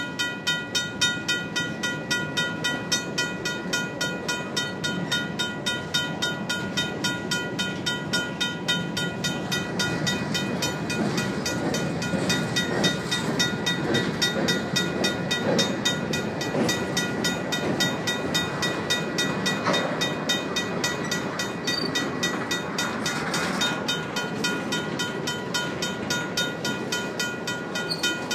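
Freight train's hopper and tank cars rolling past, with wheels rumbling and clacking over the rails. A mechanical crossing bell rings steadily in rapid even strokes throughout.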